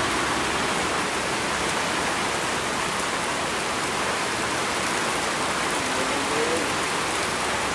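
Steady, even hiss of falling water, such as heavy rain.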